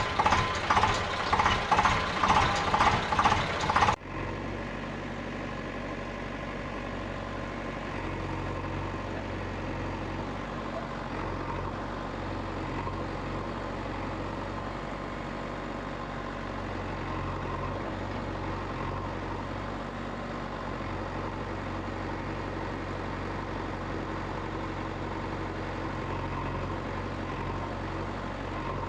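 Loud rhythmic pulsing, about two or three beats a second, cuts off abruptly about four seconds in. A steady, even motor-like drone follows for the rest of the time.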